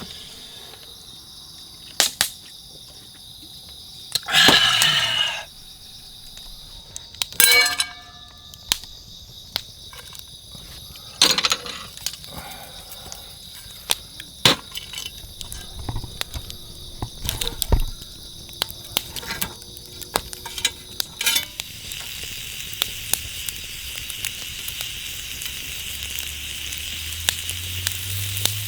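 Insects chirring steadily outdoors, with scattered clicks and knocks of cooking gear and a few short sizzles. About two-thirds of the way in a hiss starts and grows steadily louder.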